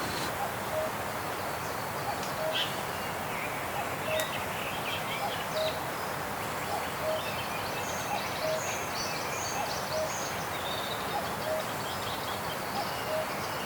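Forest ambience: a steady hiss of wind in the trees, with birds chirping, one bird repeating a short, low single note about every second and a half.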